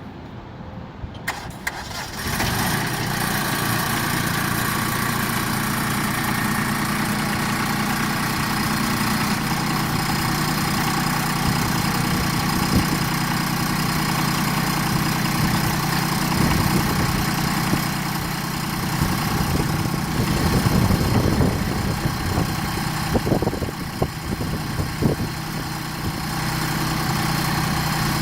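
Compact diesel tractor engine cranking and catching about two seconds in, then running steadily at idle. A few knocks come near the end.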